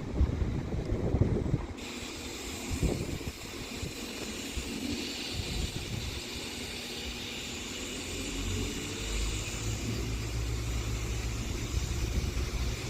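Northern Class 195 diesel multiple unit's underfloor engines powering up as the train pulls away. A low steady drone builds from about eight seconds in, with a rising whine near the end.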